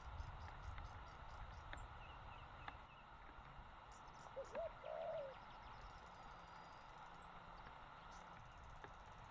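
A bird gives two short arched calls, rising then falling, about four and a half seconds in, over a steady background hiss.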